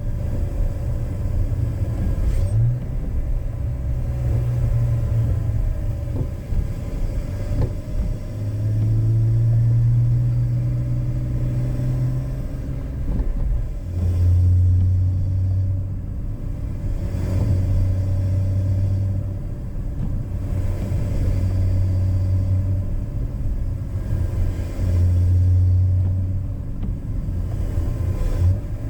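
BMW E46 inline-six engine with a K&N open cone intake, driven gently at part throttle. Its steady hum carries a low drone that swells for a few seconds at a time and drops back, with no hard revving.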